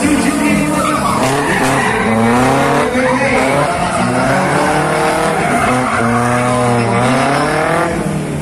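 Competition car's engine on a slalom run, revs rising and falling repeatedly as it accelerates and brakes between cones.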